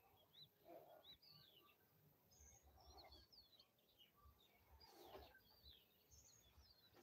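Near silence with faint bird chirping: many short, quick chirps throughout.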